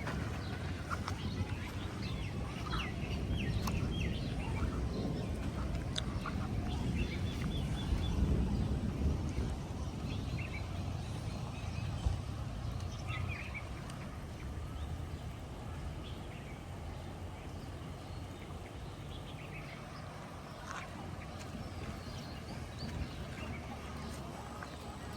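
Scattered short bird calls over a steady low rumble of outdoor noise.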